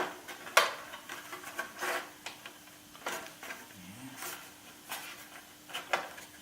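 Metal parts and hand tools being handled during assembly work, giving separate clinks and knocks about every second or so over a faint steady hum.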